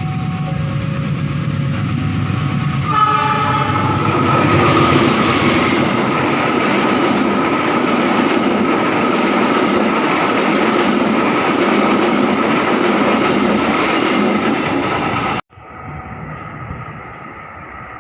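Train at a station sounding its horn in the first few seconds, then passing close with a loud rumble of wheels on the rails and a steady high ring. The sound cuts off abruptly near the end, leaving a quieter steady noise.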